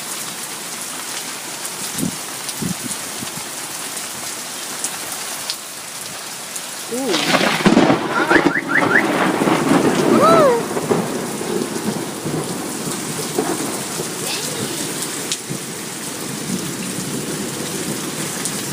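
Heavy rain falling steadily in a thunderstorm, with a loud burst of thunder about seven seconds in that lasts about three seconds before the rain carries on alone.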